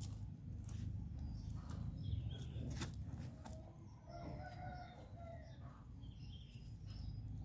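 A bird calls once in the background, a drawn-out call about four seconds in, over a steady low rumble, with a few sharp clicks in the first half.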